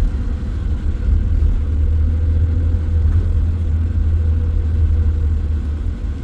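Steady low rumble of a running vehicle engine, with a faint steady hum above it.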